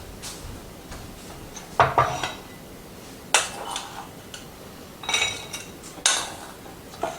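Metal utensils clinking and scraping against dishes in several separate bursts while a salad is served up, each clink ringing briefly.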